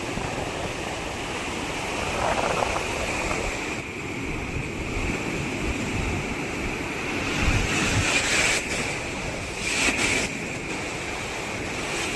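Ocean surf washing onto a beach: a continuous rush that swells a few times, most strongly about two-thirds of the way through and again shortly after, with wind buffeting the microphone.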